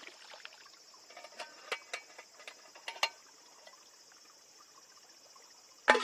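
Crickets trilling steadily in a high, continuous chorus. Scattered sharp clicks come between one and three seconds in, and a single loud knock near the end.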